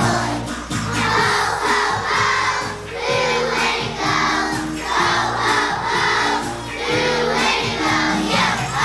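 Children's choir singing a song with piano-style accompaniment.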